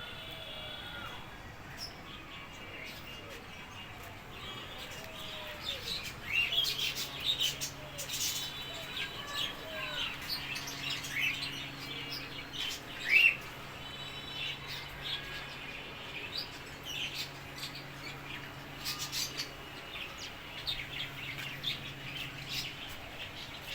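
Many caged birds in a bird farm's aviary chirping and calling over one another: short chirps and rising whistles, with one loud call about halfway through. A steady low hum runs underneath from about five seconds in.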